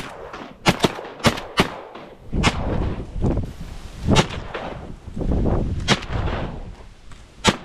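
A string of shotgun shots, about eight, some fired in quick succession by more than one gun and others a second or two apart.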